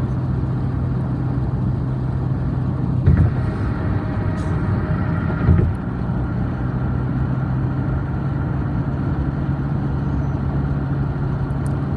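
A car driving on the road: steady engine hum and tyre noise, with two brief thumps about three and five and a half seconds in.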